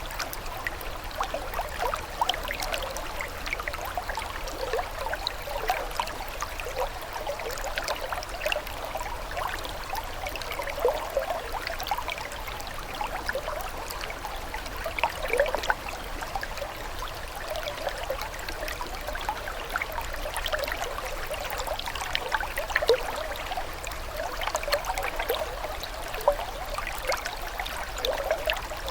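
Running water trickling and gurgling steadily, with many small bubbling splashes.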